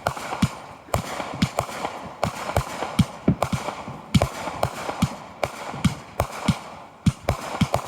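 Consumer fireworks going off in a rapid, uneven string of sharp bangs, about two to three a second, over a steady crackle of small bursts.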